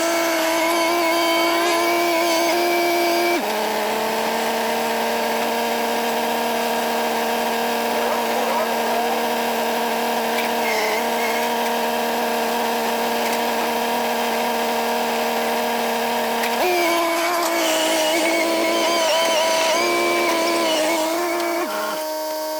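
Diesel engine and hydraulics of heavy equipment running at high revs under load while a new rubber track is forced onto an excavator's undercarriage. The steady pitch drops about three seconds in and rises again near the end.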